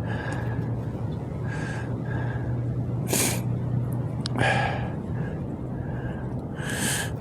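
A man breathing heavily close to the microphone, about one audible breath every second and a half, the loudest about three seconds in, over a steady low hum.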